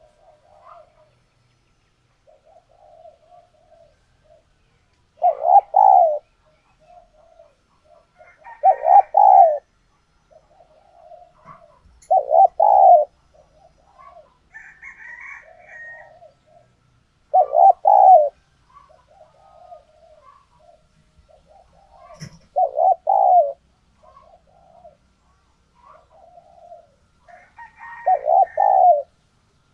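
Spotted dove cooing: six loud coo phrases, each about a second long and coming roughly every five seconds, with fainter cooing in between.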